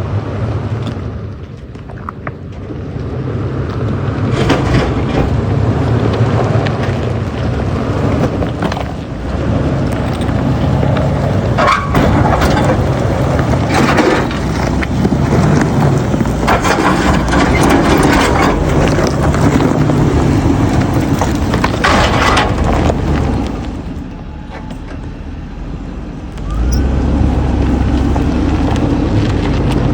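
Toyota Land Cruiser 100 series driving off-road: the engine runs steadily under the noise of tyres on rough ground, with several sharp cracks or scrapes along the way. The sound drops off briefly near the end, then the engine comes back stronger.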